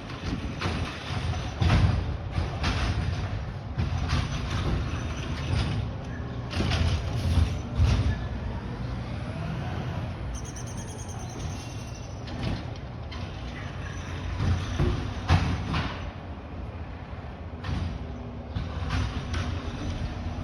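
Garbage truck running with a low steady rumble, broken by many sharp clanks and knocks, and a brief rising whine about halfway through.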